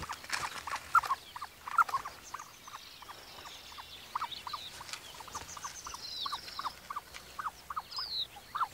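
Ostrich chicks chirping: a run of short, quick peeps, about two or three a second, with fainter higher twittering mixed in.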